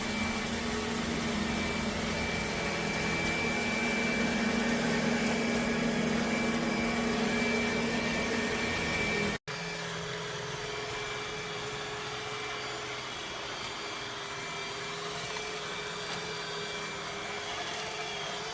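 Robot vacuum running, a steady whirring hum with a high whine. It breaks off abruptly about nine seconds in, and a steady, slightly quieter hum with a single held tone carries on.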